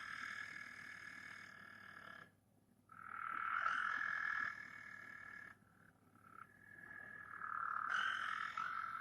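Frog calls: three long, steady, high calls of about two to three seconds each, with short pauses between them.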